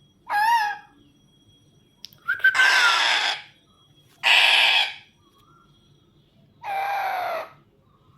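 Pet parrot giving four harsh screeching calls about two seconds apart. The first is short and wavering, the second the loudest.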